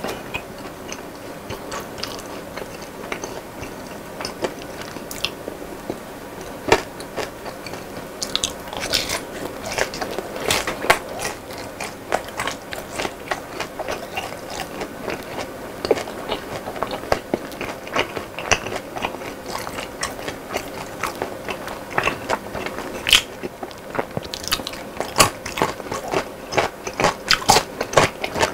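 Close-miked chewing of crispy fried food: repeated crunches and mouth clicks, thickest about a third of the way in and again near the end.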